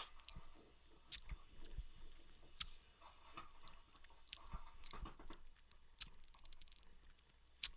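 A person chewing a mouthful of food, taken from a bowl with a spoon, picked up close on a headset microphone, with a few sharp clicks scattered through, the loudest about six seconds in.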